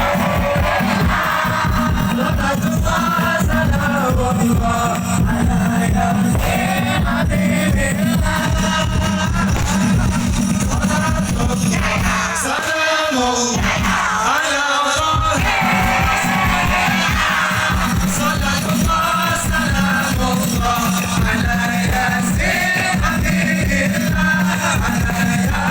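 Live sholawat devotional music: a singing voice over a fast, steady drum rhythm and a held low tone. The drums drop out for a few seconds about halfway, then come back.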